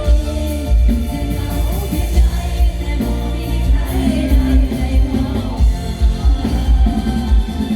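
Live band music with a young woman singing a Thai song over a steady, heavy bass beat.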